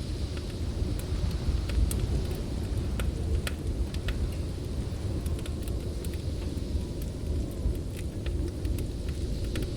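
Deep, steady roar of blizzard wind with a wood fire crackling over it in irregular sharp pops.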